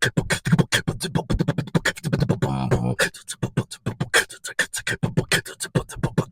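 A person beatboxing: a fast, dense run of mouth-made kick, snare and hi-hat sounds, broken about two and a half seconds in by a short pitched vocal tone.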